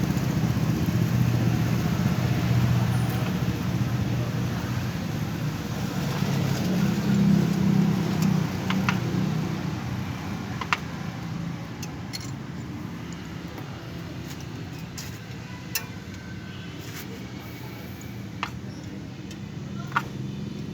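Motor vehicle engine running nearby, a steady low drone that swells around seven seconds and then fades away. A few sharp clicks are heard in the second half.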